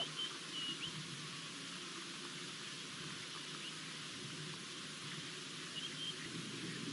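Steady outdoor hiss of open bush ambience, with a few short, high bird chirps in the first second and again near the end.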